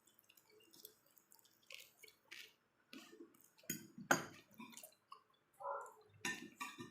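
Close-up eating sounds of someone chewing pork: scattered wet mouth clicks and smacks, with a louder pair about four seconds in.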